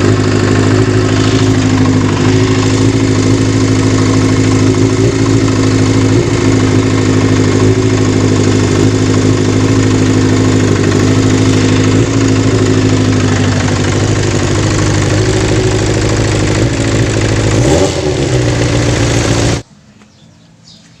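Kawasaki GPz 400 motorcycle engine running steadily, with a brief dip and recovery in pitch near the end, then the sound cuts off suddenly.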